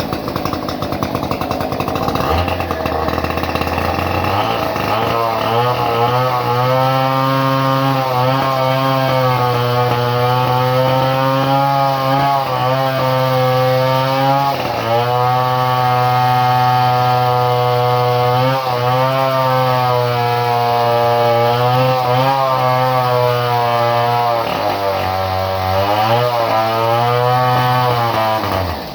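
Two-stroke chainsaw engine running steadily at a high, even speed, after rising from a lower speed a few seconds in. Its pitch dips briefly a few times, around halfway and again later, and it drops right at the end.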